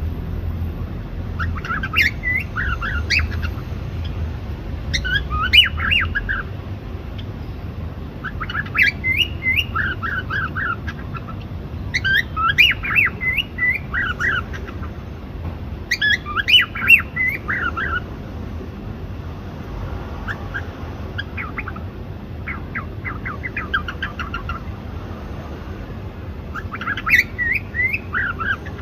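Cockatiels chirping and squawking in clusters of quick up-and-down chirps that recur every few seconds.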